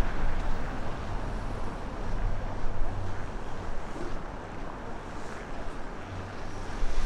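Storm wind buffeting the microphone in gusts, a low rumble that swells and eases.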